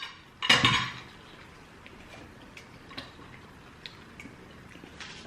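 Cutlery clinking against a plate during a meal: one loud ringing clink about half a second in, then light scattered taps and clicks.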